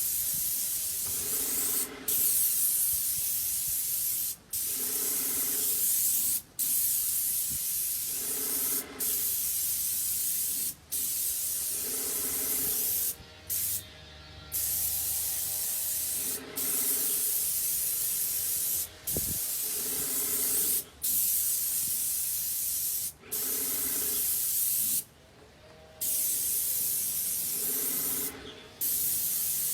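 Paint spray gun spraying in long passes: a steady hiss that cuts out briefly every second or two as the trigger is released between strokes, with a low pulsing hum about every two seconds underneath.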